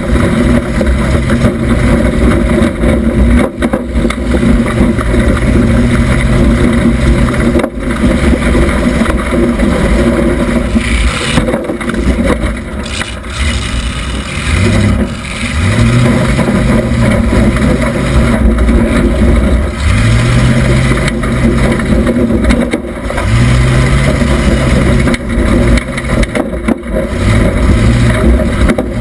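A 1976 Oldsmobile Cutlass Supreme demolition derby car's engine running hard, heard from inside the car near the back window, with the engine revving up and down over and over in the second half. A couple of sharp knocks come in the first several seconds.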